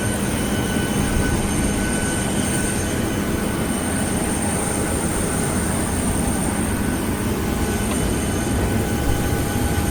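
Steady rumble and hiss heard from inside a vehicle, with faint steady whining tones over it.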